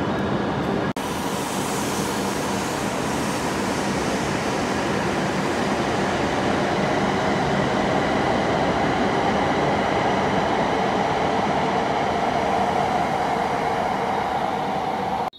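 E7/W7-series shinkansen running along the platform: a loud, steady rush of wheel and air noise that starts about a second in and cuts off suddenly near the end.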